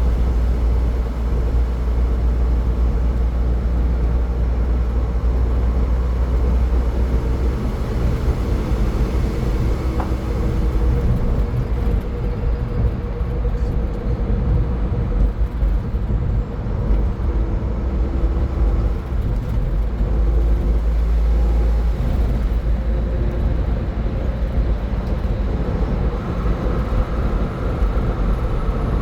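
A car driving at highway speed: a steady, deep rumble of road and tyre noise with the engine underneath.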